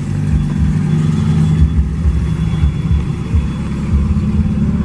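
Car engine running: a low, steady drone with uneven pulses.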